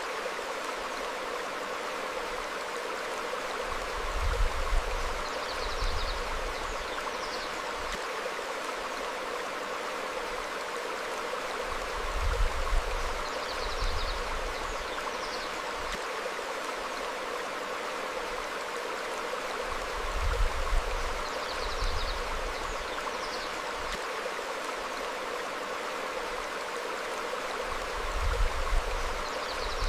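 Stream flowing steadily over rocks, with short bird chirps and a brief low rumble that recur about every eight seconds.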